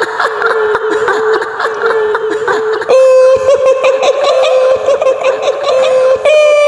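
A woman's high-pitched, long cackling laugh, performed as the laugh of a kuntilanak ghost. The laugh pulses rapidly on a held note, and the pitch steps up about three seconds in and again near the end.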